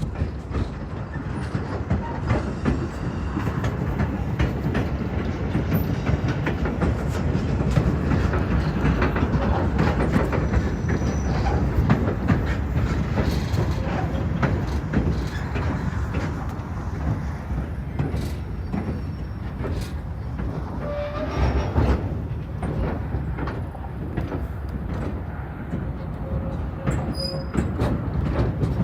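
Train rolling along the track: a steady rumble with frequent clicks of the wheels over the rail joints.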